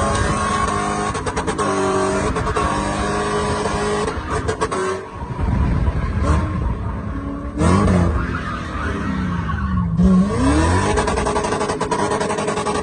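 BMW E30's swapped 4.0-litre V8 engine revving hard, heard from inside the car: the revs hold high, drop about eight seconds in and climb again about two seconds later.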